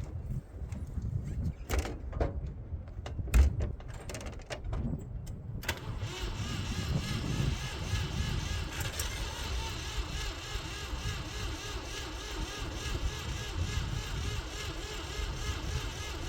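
Ford 3400 tractor's three-cylinder gas engine being turned over by the starter in a cold no-start: a steady cranking from about six seconds in that runs on without the engine catching. Before it come a few knocks and clicks, the loudest about three and a half seconds in.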